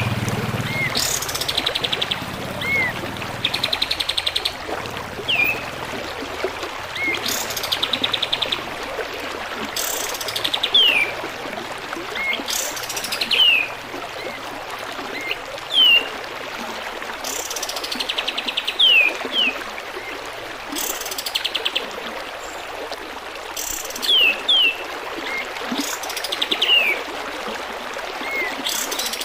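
Kapas tembak bird song, repeated every second or two: short downward-sliding whistles, fast rattling trills and sharp high bursts, over a steady trickle of running water.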